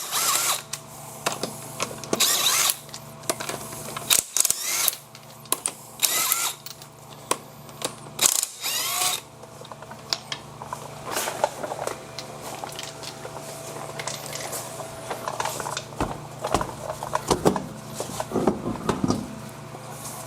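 Impact wrench firing in short bursts, about four in the first nine seconds, loosening a wheel's lug nuts. After that come scattered metal clinks and knocks of nuts and tools being handled.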